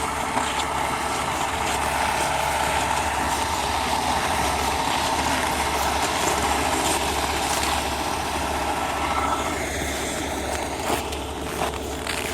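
Logging truck's diesel engine running close by, a steady hum with a held tone, easing down about nine seconds in.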